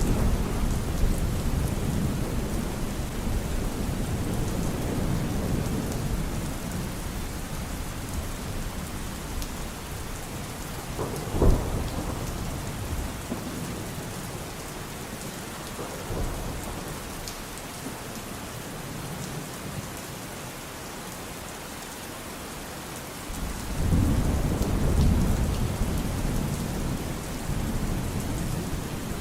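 Steady rain with rolling thunder. A rumble dies away over the first several seconds, a sharp crack of thunder comes near the middle, and a new rumble rolls in near the end.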